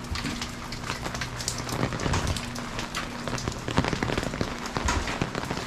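Rain falling, with many individual drops striking close by. A steady low hum runs under it and stops about three and a half seconds in.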